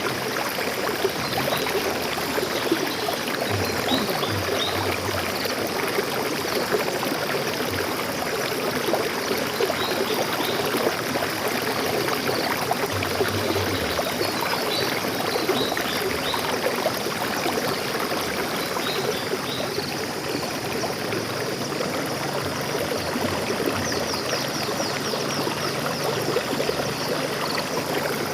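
Stream water flowing steadily, with faint bird chirps now and then and a quick bird trill near the end.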